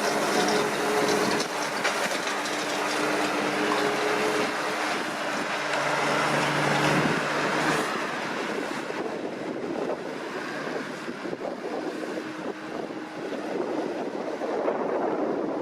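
New Holland T6070 tractor's diesel engine running steadily while working with a CLAAS Liner rotary rake, an even engine hum over a continuous mechanical rush. The engine note weakens in the second half.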